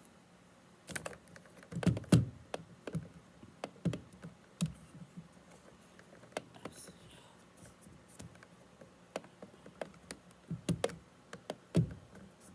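Scattered irregular clicks and soft knocks of objects being handled, bunched in the first few seconds and again near the end.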